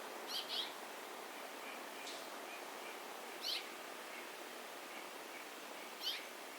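Songbird calls at a bird feeder: short high chirps that sweep downward, two in quick succession about half a second in, then single ones about three and a half and six seconds in, over a steady background hiss.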